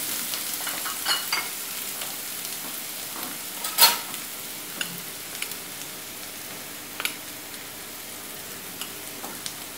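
Chopped onion and garlic paste sizzling in hot oil in a metal frying pan, stirred with a silicone spatula. A steady frying hiss runs under a few sharper clicks from the stirring; the loudest click comes about four seconds in.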